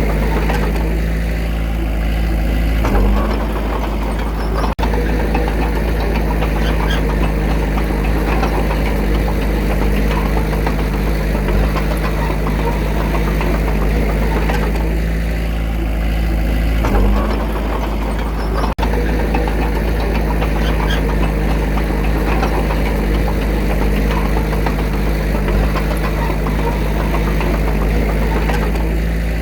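Diesel engine of heavy earthmoving machinery running steadily at a constant speed. The engine note rises briefly about 3 seconds in and again about 17 seconds in, and the sound drops out for an instant twice.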